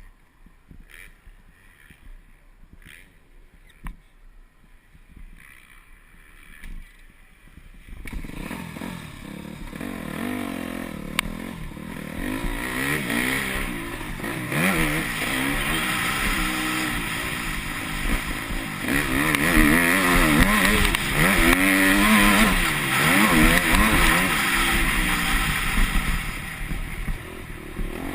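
Yamaha YZ250F single-cylinder four-stroke motocross engine. It is faint for the first eight seconds or so, then comes up and revs repeatedly rise and fall as the bike is ridden hard around the track.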